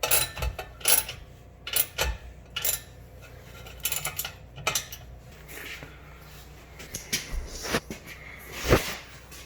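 Irregular metal clinks and clanks from working a stainless catback exhaust onto its hangers, with the loudest knock near the end.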